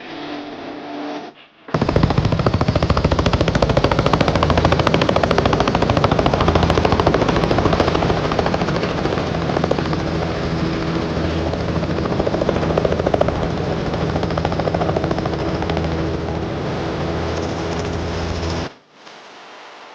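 Helicopter heard at close range: a loud, rapid chopping of the rotor blades over a steady engine hum. It starts about two seconds in and cuts off abruptly near the end.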